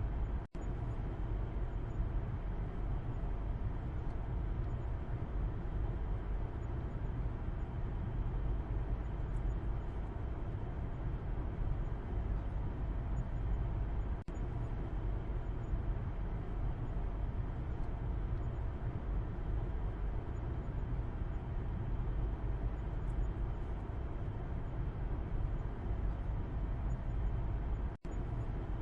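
Car interior road noise heard from the back seat: a steady low rumble of engine and tyres while driving. It drops out for an instant three times: about half a second in, midway and near the end.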